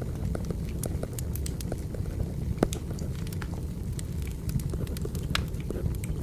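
Wood fire burning, with a steady low rumble and frequent irregular crackles and pops.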